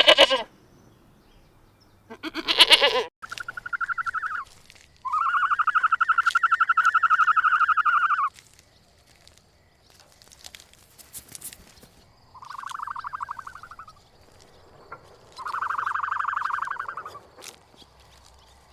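A series of bleats from a goat or sheep: two short, harsh calls at the start, then longer, higher, wavering calls, the longest about three seconds.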